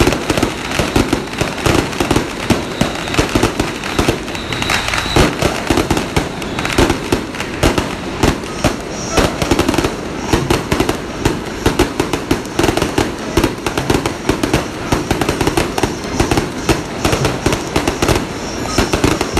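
Firecrackers going off continuously in dense, rapid, irregular cracks, with crowd voices underneath.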